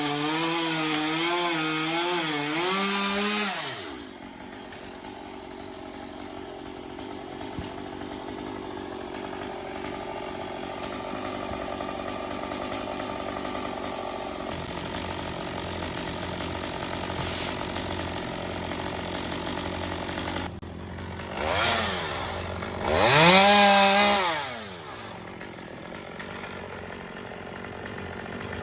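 Chainsaw running at high revs for about four seconds with its pitch wavering, then dropping to a steady idle. Near the end it is revved twice, a short blip and then a harder rev of about two seconds, before settling back to idle.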